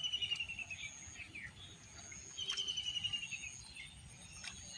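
A bird singing a fast trill that falls in pitch, heard twice, about three seconds apart.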